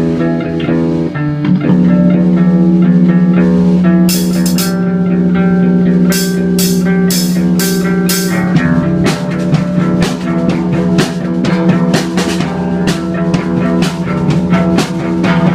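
Rock music played on guitars with bass and a drum kit. Cymbal strokes come in about four seconds in, and from about nine seconds the drums keep a steady beat under the held guitar chords.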